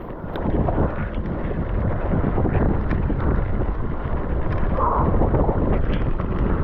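Wind buffeting the microphone: a loud, irregular low rumble that swells about half a second in and then holds.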